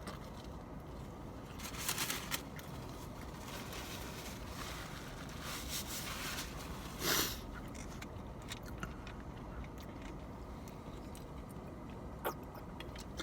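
A person biting into and chewing a hand-dipped corn dog, quietly, with a couple of short crunching or rustling sounds about two and seven seconds in, over a steady low background rumble.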